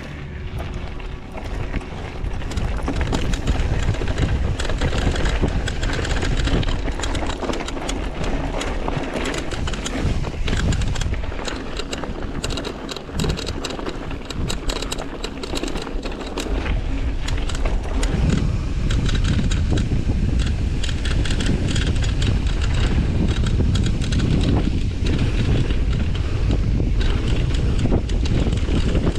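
Mountain bike descending a dirt trail, its frame and parts rattling over the bumps amid constant wind noise on the camera microphone. The wind rumble gets heavier about two-thirds of the way through.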